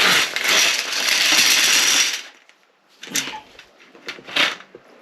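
Toilet auger being worked in the bowl: the metal cable rattles and scrapes steadily for about two seconds, followed by two short metallic clatters.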